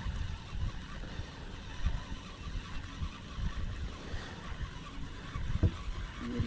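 Irregular low rumbling noise aboard a fishing kayak on the water, with one short knock a little over five seconds in.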